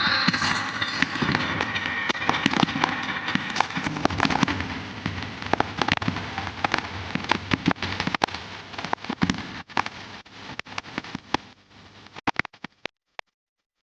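Fireworks going off: a dense stream of crackles and bangs that thins out after about ten seconds and dies away near the end.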